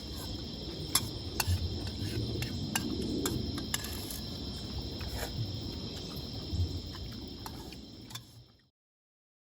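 Night insects chirring steadily, with scattered sharp clicks and a low rumble underneath; everything cuts off suddenly near the end.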